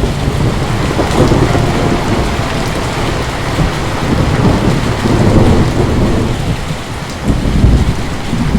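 Heavy rain pouring down, with a deep rumble underneath that swells several times.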